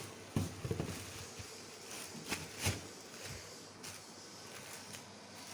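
A few light clicks and knocks as a part of the washing machine is handled and fitted, with quiet handling noise in between.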